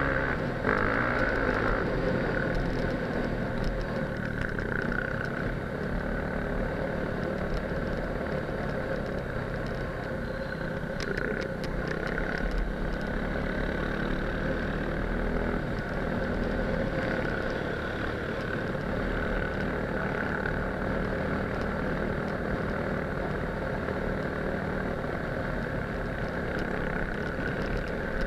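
Enduro motorcycle engine running steadily at cruising speed on a dirt road, with wind rumble on the bike-mounted microphone and a few clicks about eleven seconds in.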